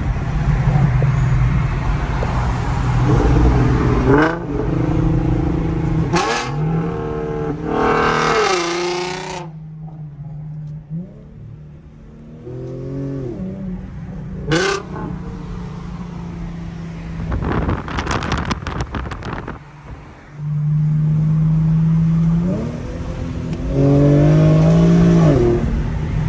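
Straight-piped (muffler-deleted) exhaust of an Infiniti G37's 3.7-litre VQ V6 accelerating hard, the pitch climbing and then dropping at each gear change several times. Loud, with the engine easing off between pulls.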